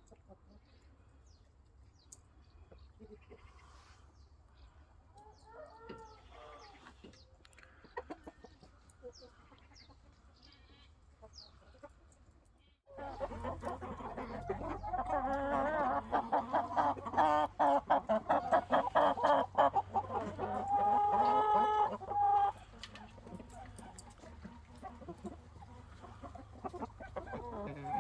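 Shamo and Aseel gamefowl calling: faint scattered clucks at first, then a sudden loud stretch of many birds clucking at once a little before halfway, with a rooster's held crow about two-thirds of the way through.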